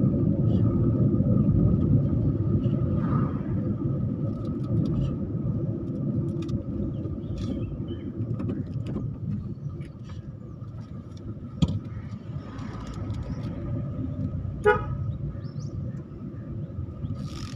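Steady low rumble of a vehicle on the move, with a faint steady high tone over it, a sharp click about twelve seconds in and a brief pitched toot about fifteen seconds in.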